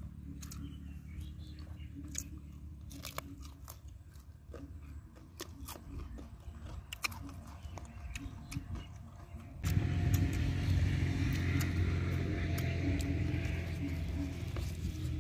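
A person chewing and crunching crisp food, raw cauliflower and fried fish, close to the microphone, with many sharp crackling crunches. About ten seconds in, a louder steady low rumble with hiss sets in under the chewing.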